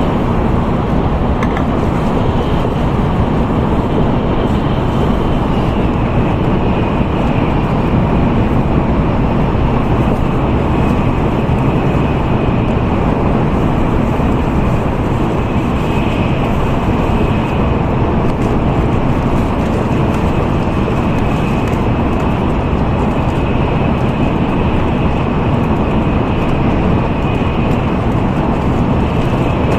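Steady running noise of an N700A Tokaido Shinkansen at speed, heard from inside the passenger cabin: an even rumble and rush with a faint high whine over it.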